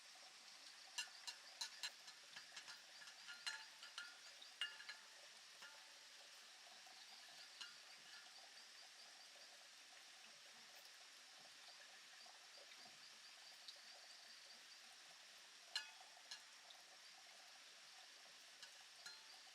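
Quiet ambience with a faint, steady high chirring and scattered sharp clicks or chinks, several close together in the first few seconds and one more near the end.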